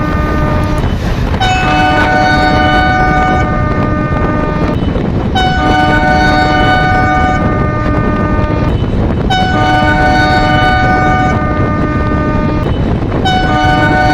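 A Henschel diesel locomotive's multi-tone horn sounds in repeated long blasts, about four of them, each roughly three seconds with short breaks between. Under it is the steady rumble of the train running at speed.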